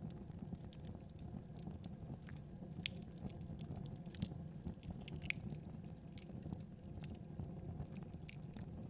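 Wood fire crackling: irregular sharp pops and snaps over a steady low rumble of burning, with a few louder pops near the middle.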